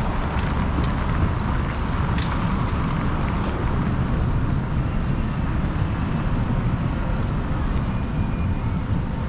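Steady city street noise: a low rumble of passing traffic mixed with wind on the microphone, with a faint thin high whine from about three seconds in.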